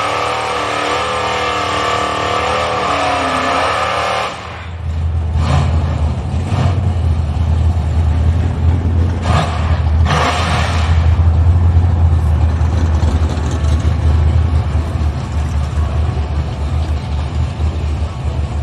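Drag-strip vehicle engine sounds. First comes a high, wavering engine note made of many tones. Then, after an abrupt change about four seconds in, a loud low engine rumble with a few short gusts of rushing noise.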